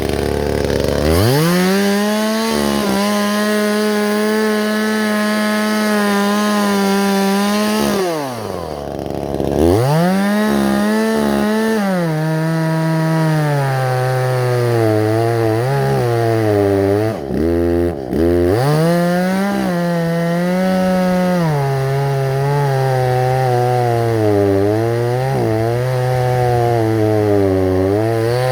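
Chainsaw engine revved to full throttle and cutting into a tree, its pitch sagging and wavering under load. The throttle is let off twice and opened again.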